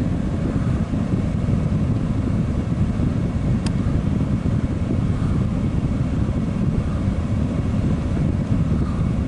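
Steady low rumble of a MARC train standing at the station, its Siemens Charger diesel locomotive idling. One brief click about three and a half seconds in.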